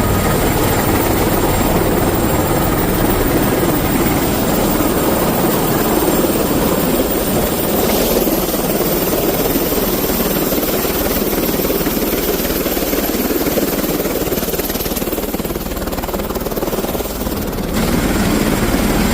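Helicopter engine and rotor noise, steady and loud, dipping slightly for a couple of seconds near the end.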